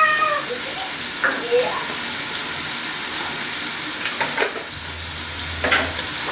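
Mushrooms and chili garlic paste sizzling steadily in hot oil in a pot, with a couple of brief knocks a few seconds in.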